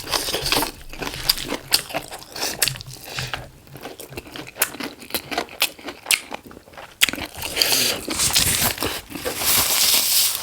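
Close-miked eating: biting and chewing chicken, with many sharp crunches, clicks and wet crackles, thickening into steady crackling about seven seconds in.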